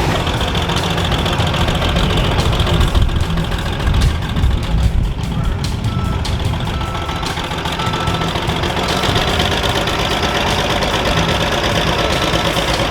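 A heavy truck engine running steadily, with a reversing beeper sounding in short, irregular beeps.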